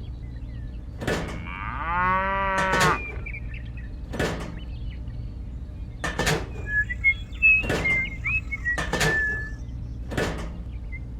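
A cow moos once, about two seconds in, among a series of sharp knocks that come every second or two. Short bird chirps follow from about six to nine seconds in.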